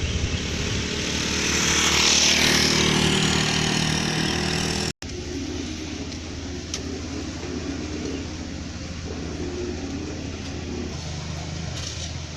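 A truck engine: a vehicle passes, growing louder and peaking about two seconds in, then after a cut a steady engine hum runs on.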